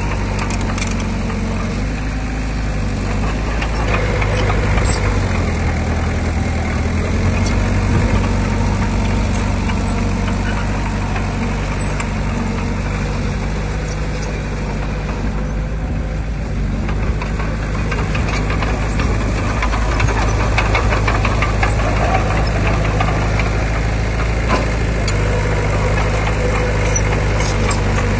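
Heavy diesel earthmoving machinery running steadily, its engine note shifting pitch a few times, with scattered clanks and rattles over it.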